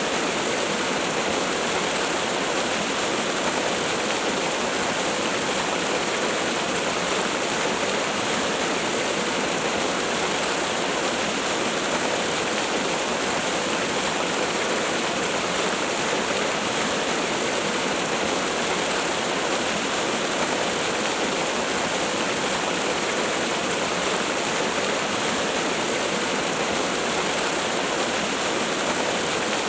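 Waterfall: falling water pouring without a break, an even hiss-and-rush with no changes.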